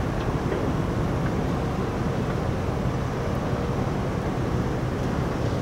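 Steady low rumble of a large RORO cargo ship's engines, with a faint steady hum over it.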